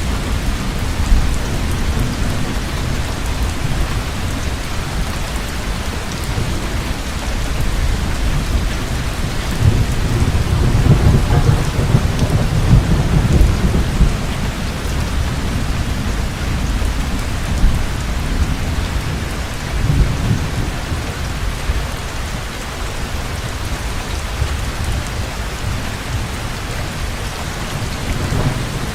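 Heavy rain falling steadily, with thunder rumbling through it, swelling twice, the louder around the middle and again briefly later.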